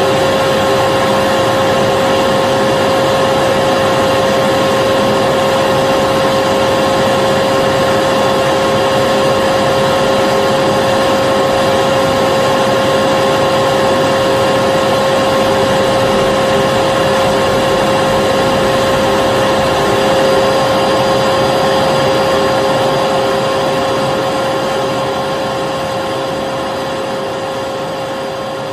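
Vacuum cleaner running steadily, an even motor whine with a clear constant tone over rushing air, which begins to fade out near the end.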